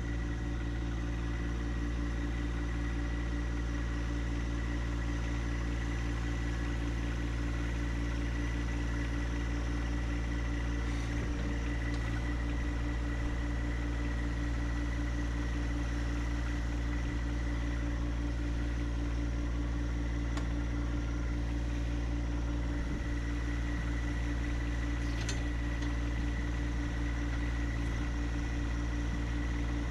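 An engine idling steadily, with an even low throb and no revving.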